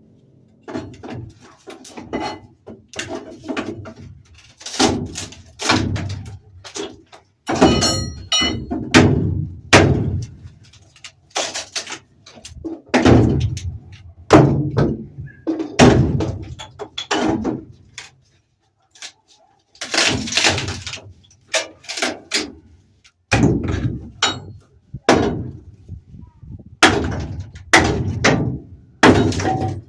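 Irregular series of heavy knocks and thuds, sometimes several a second, with a brief pause just past the middle.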